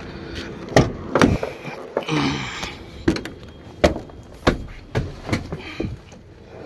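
A series of sharp knocks and thumps, about eight over several seconds, as a person climbs up into a truck's cab, with brief faint talk about two seconds in.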